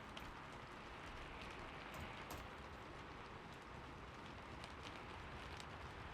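Steady rain falling, a soft even hiss with scattered drops ticking.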